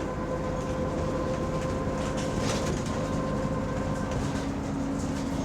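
City bus driving along, heard from inside the passenger saloon: steady engine hum and road noise with a steady whine. The bus has an exhaust leak.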